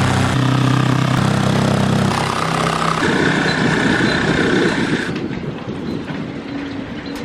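An engine or motor running steadily, its pitch changing about three seconds in, then easing off around five seconds.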